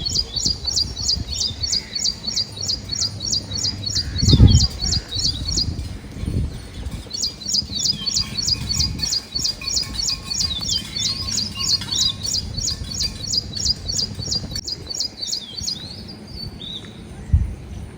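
A bird singing a fast, even series of high, down-sweeping chirps, about four a second, in two long runs with a short break between. A low thump about four seconds in is the loudest moment.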